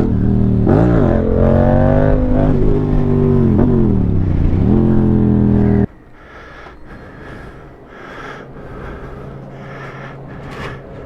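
Motorcycle engine running loudly, its pitch dropping and rising several times as it revs and shifts. It cuts off abruptly about six seconds in, leaving a much quieter, indistinct background.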